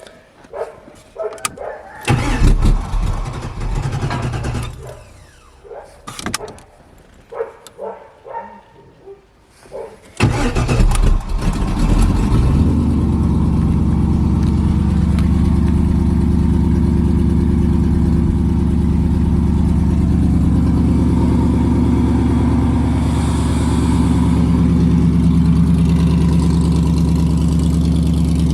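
Cold start of a 1975 Camaro's 6.2-litre LS3 V8 on E85 through open headers. A first attempt about two seconds in rumbles briefly and dies away. About ten seconds in the engine fires and settles into a steady, loud idle.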